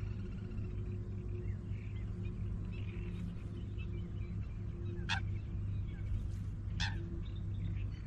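Wild birds chirping on and off, with two short sharp calls about five and seven seconds in, over a steady low hum.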